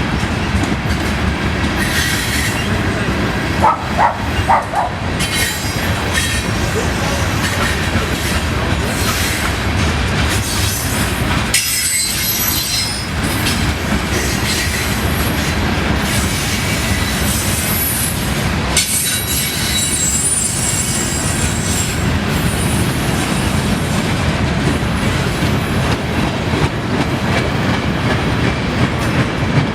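A train rolling past, its wheels clacking steadily over the rail joints, with high-pitched wheel squeal that comes and goes, plainest around the middle of the stretch.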